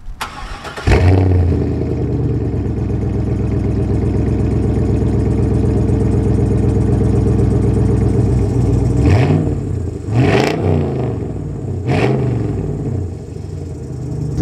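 Chevrolet Camaro Z28's LS1 V8 cold-started through a cat-back exhaust. The starter cranks for about a second, then the engine catches with a loud flare and settles into a steady idle. Near the end it is revved three times, each rev rising and falling.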